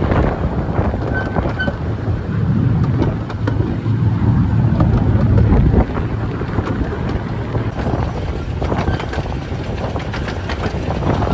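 Wind buffeting the microphone over the steady low rumble of a 15-inch-gauge miniature railway train running along the track, with frequent light clicks from the wheels.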